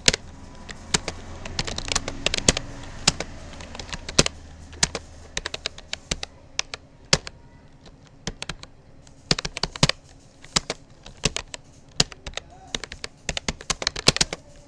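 Typing on a Rapoo computer keyboard: quick, irregular runs of key clicks with short pauses between words.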